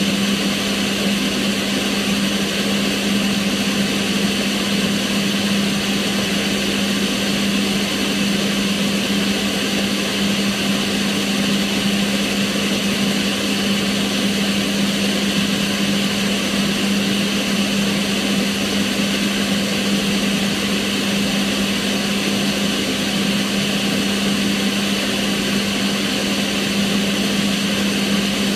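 Kitchen range hood extractor fan running steadily: a constant rushing of air with a steady low motor hum beneath it.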